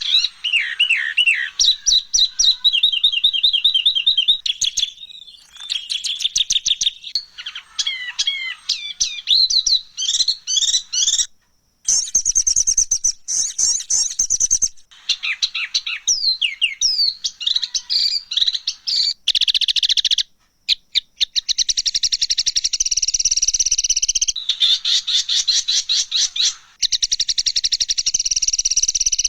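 Songbird masteran recording of harsh, rough song: dense, fast rattling trills and chattering chirps with quick up-and-down pitch sweeps, broken twice by brief silent gaps.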